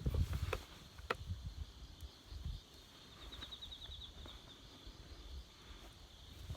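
Wood fire crackling, with scattered sharp pops and a low rumble at the start. A steady high-pitched trill runs in the background and pulses quickly for a moment midway.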